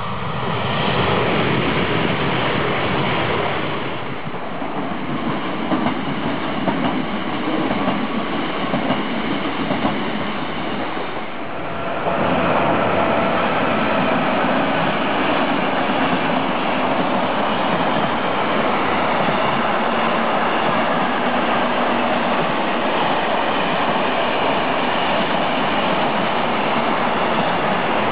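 A red DB Class 440 electric multiple unit passes close by in the first seconds. About twelve seconds in, after a cut, an electric-locomotive-hauled freight train of pocket wagons carrying lorry trailers rolls across a low steel-and-concrete bridge, with a steady, loud rolling noise of wheels on rail that lasts to the end.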